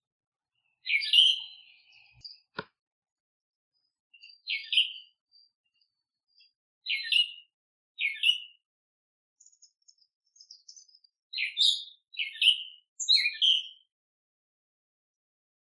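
Small songbirds giving short, sharp chirps, singly and in quick groups of two or three, with faint high twitters in between. There is one sharp click about two and a half seconds in.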